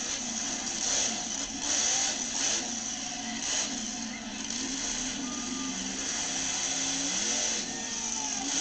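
Monster truck engine running and revving, its pitch rising and falling again and again.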